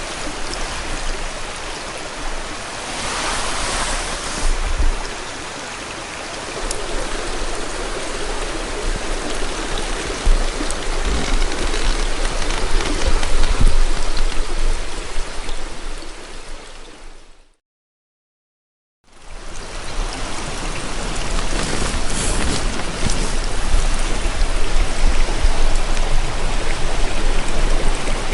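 Steady rushing of flowing water, broken by a clean cut to silence for about a second and a half roughly two-thirds of the way through, then resuming.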